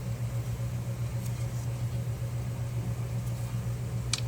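Steady low mechanical hum of a motor or fan running in the background, with one short click near the end.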